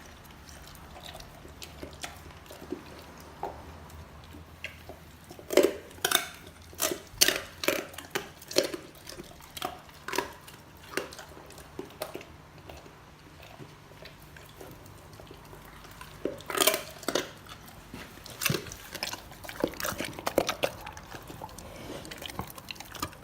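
A Dogo Argentino chewing raw chicken and anchovies with wet smacking, crunching the chicken bones in irregular runs of sharp cracks. The cracks come thickest about five seconds in and again past the middle.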